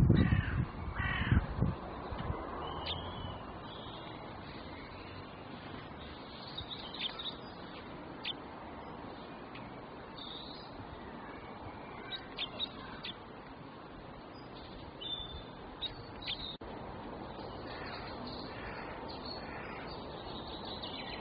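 Two loud bird calls in the first two seconds, then a steady background hiss with scattered short, high bird chirps.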